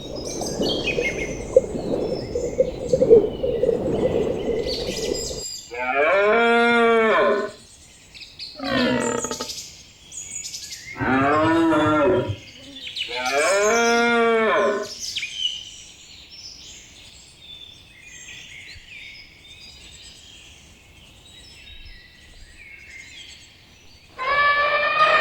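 Cattle mooing: four drawn-out calls of a second or two each, rising and falling in pitch, with small birds chirping in the background. A steady noise fills the first five seconds before the first moo.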